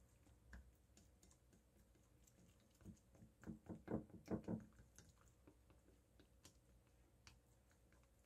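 Chopsticks stirring raw egg into rice in a ceramic bowl: faint scattered clicks and taps against the bowl, with a quick run of louder taps about three to four and a half seconds in.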